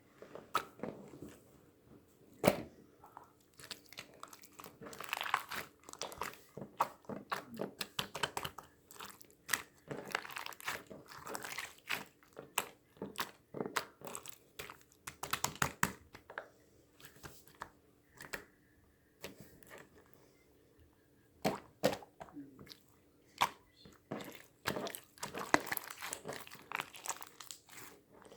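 Irregular close-up crunching and crinkling noises, sharp crackles coming in uneven clusters, with a quieter stretch past the middle.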